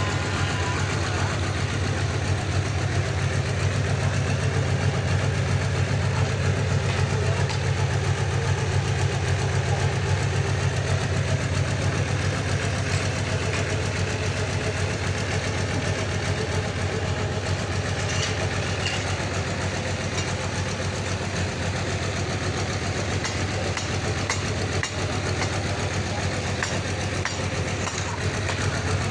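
Sawmill engine running steadily with an even low hum, its pitch and load changing little.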